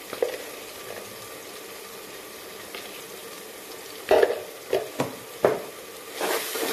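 Onions frying in oil in an aluminium pressure cooker, a steady sizzle. From about four seconds in, a metal spatula stirs and knocks against the pot a few times, and the sizzle gets louder near the end.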